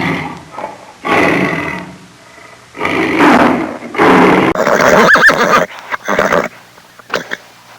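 Three rough, breathy animal calls, then from a little past halfway a horse neighing: a wavering high whinny followed by shorter broken calls.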